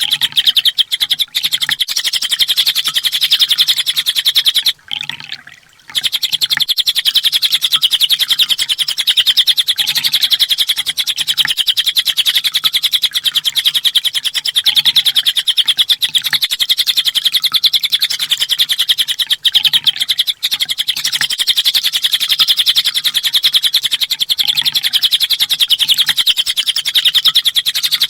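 Kolibri ninja sunbird singing an unbroken, very rapid-fire trill of high chips, the full 'tembakan' song used as masteran to train songbirds. The song breaks off briefly about five seconds in, then resumes.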